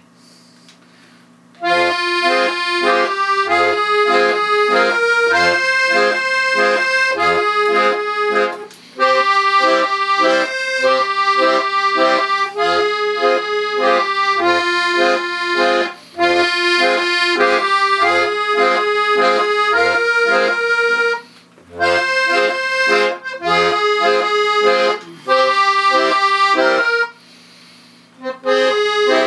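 Hohner accordion playing a folk-style tune: melody over chords with low bass notes on a steady beat. It starts about a second and a half in and breaks off briefly between phrases.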